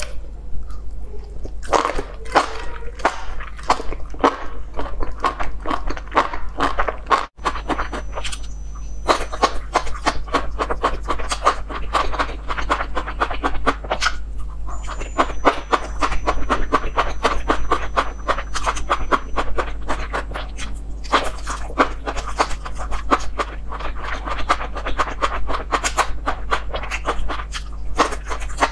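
Close-miked chewing of bacon-wrapped enoki mushrooms: dense, rapid wet crunching and mouth clicks over a steady low hum, breaking off for an instant about seven seconds in.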